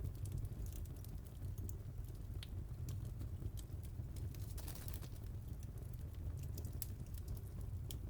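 Wood fire crackling: irregular sharp snaps and pops over a steady low rumble, with a brief hiss about halfway through.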